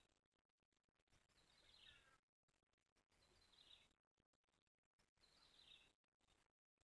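Faint bird call repeated about every two seconds, each a short call falling in pitch, three times over a faint outdoor background.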